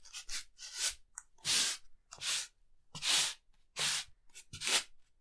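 Slippers shuffling across a floor: a steady run of soft scuffs, roughly one every three quarters of a second.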